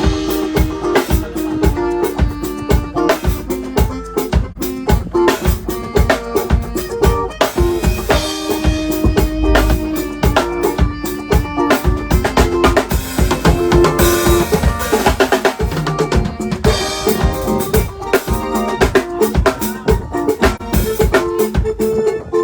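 Live band playing with the drum kit to the fore: snare and bass drum keep a busy steady beat under held pitched notes from the other instruments.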